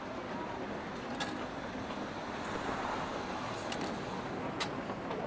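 Steady rain hiss over the low background of a cafe, broken by a few sharp clicks.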